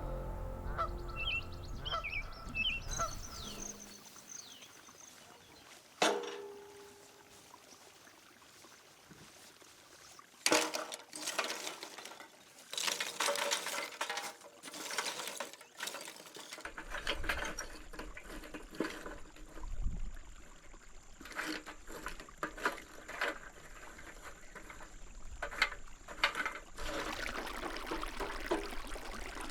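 Water pouring and splashing with irregular clattering of food-preparation handling, after a single sharp knock about six seconds in. Flowing stream water sets in about halfway through.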